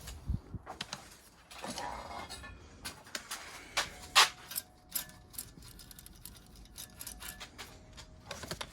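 Scattered light clicks and taps with some scraping: metal differential parts being handled and fitted together by hand, with a sharper click about four seconds in.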